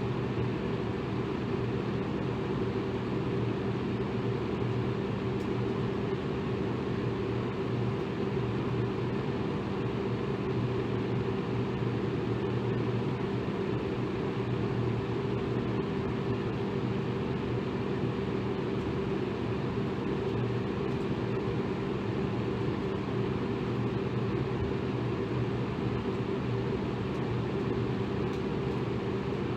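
Electric fan running steadily, a constant whoosh of moving air with a low motor hum.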